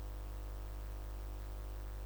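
Steady low electrical hum with a faint hiss, unchanging throughout, with nothing else sounding.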